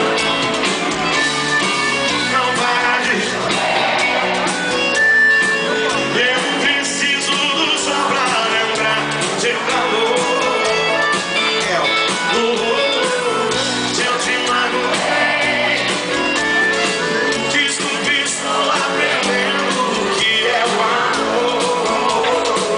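Live sertanejo duo singing with a full amplified band and guitars in a concert hall, the music loud and steady.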